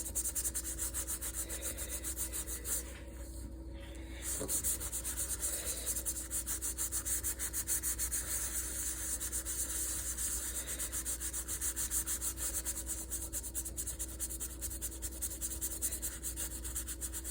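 Fast, steady back-and-forth scrubbing of a rusty pan, many short strokes a second, with a brief pause about three seconds in.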